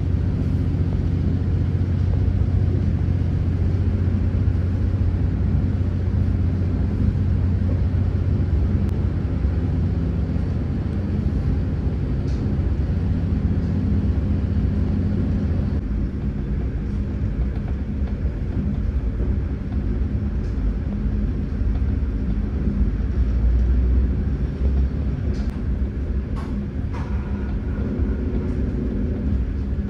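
Passenger train running along the line: a steady low rumble of the moving carriage, with a few faint clicks near the end.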